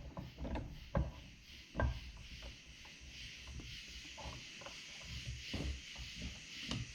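A rag-wrapped hydraulic cylinder being set into a bench vise and clamped: a few light knocks in the first two seconds, then softer knocks and rubbing, over a faint steady hiss.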